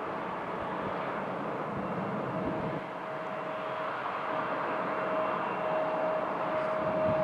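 Jet airliner engines taxiing: a steady rush of engine noise, with a thin whine that comes in about two seconds in and holds steady, slowly getting louder.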